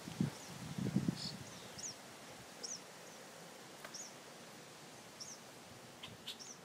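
A bird calling over and over, one short high chirp about once a second, over steady outdoor background noise. A couple of low rumbles sound in the first second.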